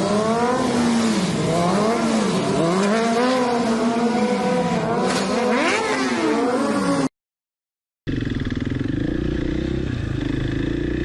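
Motorcycle engine revving, its pitch rising and falling again and again. It cuts off suddenly to about a second of silence, and a steadier, lower engine note follows.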